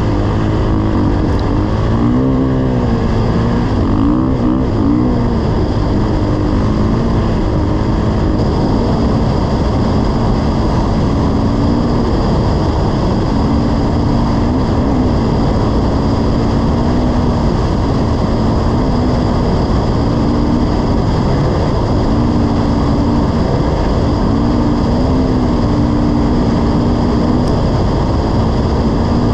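Dirt bike engine running under way, its pitch rising and falling as the throttle opens and closes, over a steady rushing noise.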